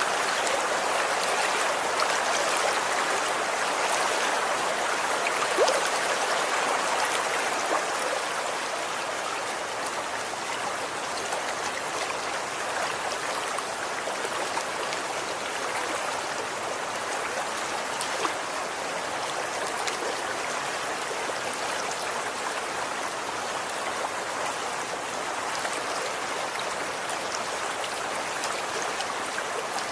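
Running water from a stream flowing steadily, a continuous rushing with small splashes and drips scattered through it.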